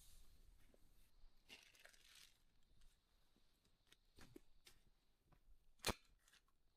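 Faint handling noises: a short stretch of rustling and scattered light clicks, with one sharper click about six seconds in.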